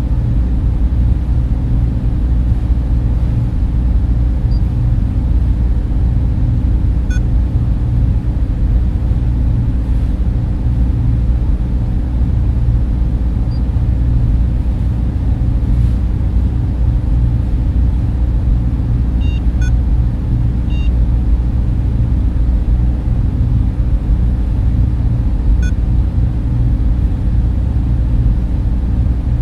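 Steady, low, rumbling hum of data center server fans and cooling equipment, unchanging throughout, with a few faint short beeps over it.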